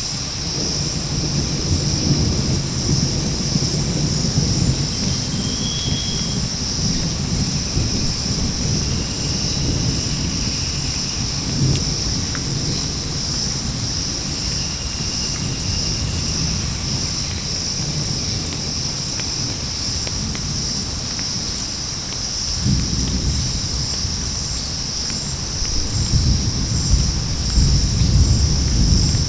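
Tropical rainforest thunderstorm: low rolling thunder over rain, with a steady high insect drone throughout. The thunder swells suddenly about two-thirds of the way through and again near the end.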